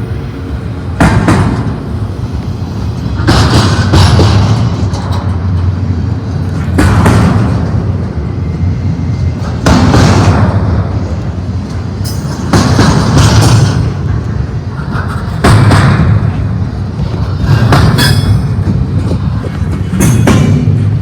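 Double-stack freight train cars rolling past: a steady low rumble with a loud clatter of wheels about every two to three seconds.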